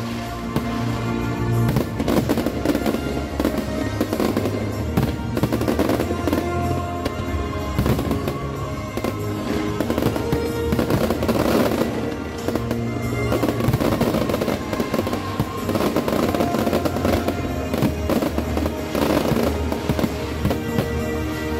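Aerial fireworks bursting in quick succession, a dense run of bangs and crackles, over music played through the venue's loudspeakers.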